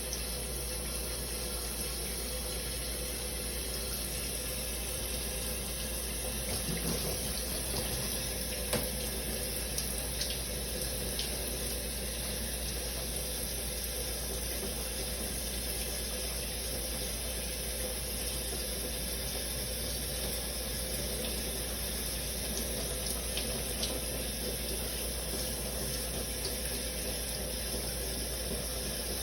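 Shower running steadily, water spraying and splashing, with a few faint ticks of drops now and then.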